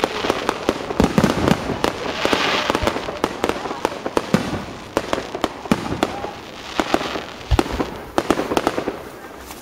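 Fireworks display: a rapid series of sharp bangs and crackles, with stretches of hissing and one deeper boom about three quarters of the way through.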